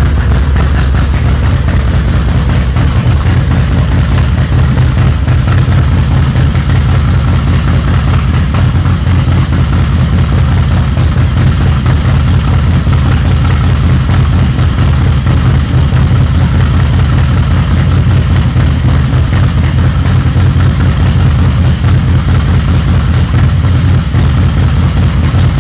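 A 2006 Harley-Davidson Softail Springer's 124 cubic inch S&S V-twin engine idling steadily and loudly, with no revving.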